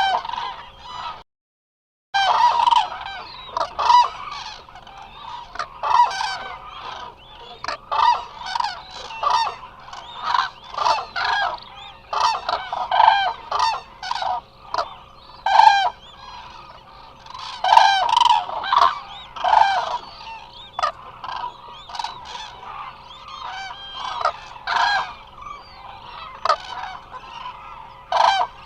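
A large flock of Eurasian cranes calling, many birds at once, with loud honk-like calls overlapping and following one another every second or so. The sound cuts out completely for under a second near the start.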